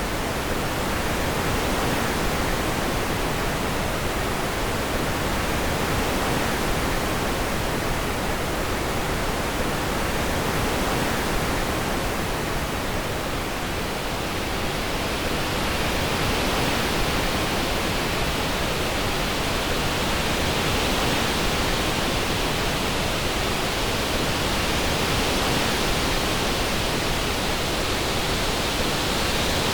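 Synthetic orange noise, panned to sound like wind: a steady, even hiss with no tones or rhythm. A higher hiss grows stronger from about halfway through.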